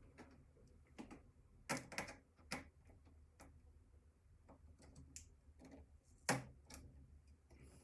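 Faint, irregular clicks and taps of computer parts being handled and pried apart during disassembly, the loudest about six seconds in.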